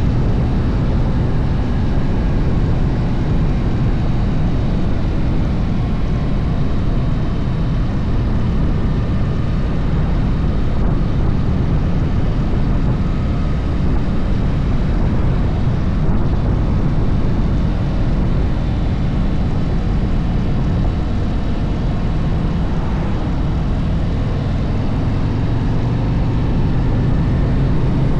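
Harley-Davidson motorcycle on the move, its engine running steadily under a dense, continuous low rumble.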